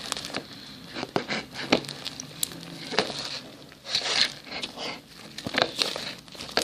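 Fluffy shaving-foam slime being kneaded and pulled in the hands, giving irregular sticky crackling and popping; the slime is still a little sticky.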